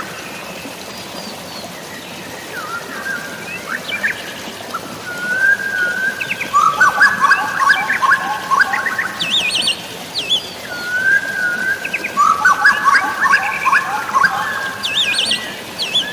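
Birds singing, with repeated phrases of whistled notes and quick warbling trills, the busiest stretches about five seconds in and again near the end, over a steady hiss of rain or running water.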